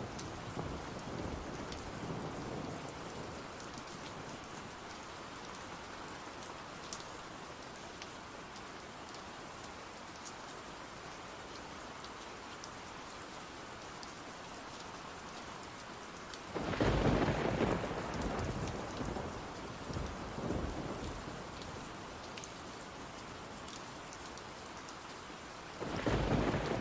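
Steady rain with thunder: a rumble fading away over the first couple of seconds, then a loud roll of thunder about two-thirds of the way through that dies away over several seconds, and another beginning near the end.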